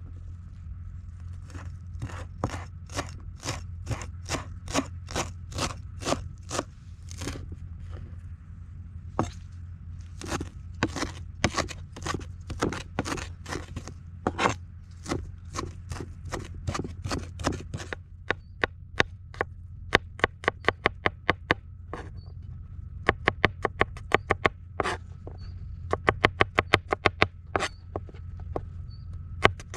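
Knife chopping food on a cutting board in even strokes, about two a second, then quicker runs of three or four a second in the second half.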